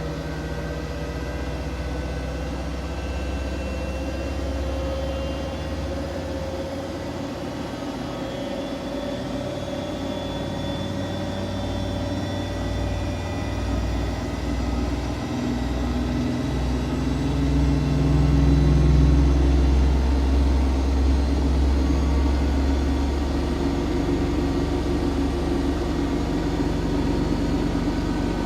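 Siemens Siwamat iQ 716 washing machine with its drum spinning. A steady motor hum has a whine that slowly rises in pitch, and a deep rumble swells, loudest about two-thirds of the way in.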